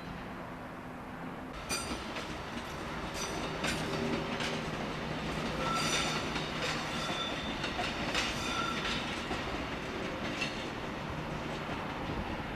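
Train running along the rails, a steady rumble with wheels clicking over rail joints from about two seconds in and short high squeals from the wheels, most of them around the middle.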